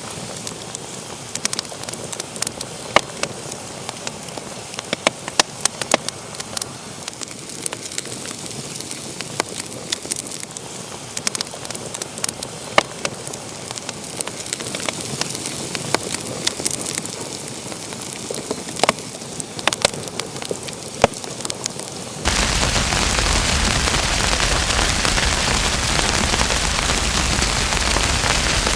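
Wood fire in a fireplace crackling, with frequent sharp pops and snaps over a low hiss. About 22 seconds in, this is cut off suddenly by a louder steady hiss with no pops.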